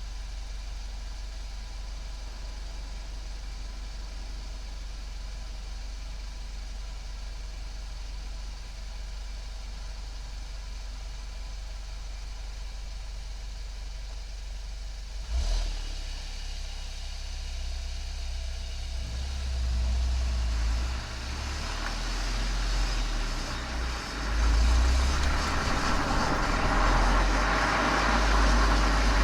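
Golf 7 GTI's turbocharged four-cylinder engine idling steadily through a Cox aftermarket muffler and chamber, heard from outside the car. About halfway there is a single sharp knock, after which the exhaust note gets louder and uneven, rising further over the last few seconds as the engine is put under throttle.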